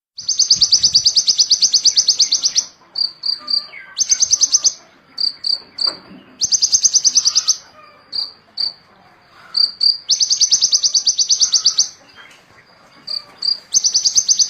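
Small songbird singing rapid, high trills of about nine notes a second, each run lasting one to three seconds. Short single high chirps come between the runs.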